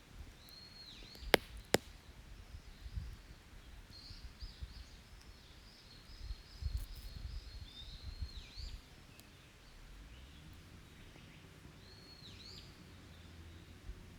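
Small birds calling in a forest: a call that dips and rises in pitch, heard near the start and again near the end, and a run of quick high notes in the middle. Two sharp pops from a wood campfire come about a second in, louder than the birds.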